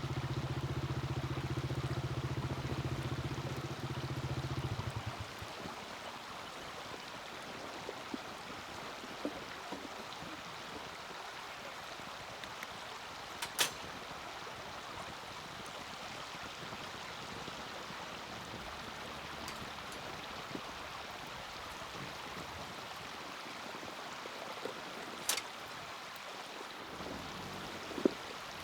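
Small campfire burning with a steady hiss and a few faint crackles, and two sharp pops, about halfway and near the end. A low engine-like hum fades out about five seconds in.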